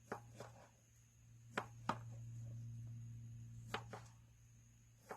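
A dull kitchen knife chopping food, about seven short sharp knocks at an uneven pace, several coming in quick pairs.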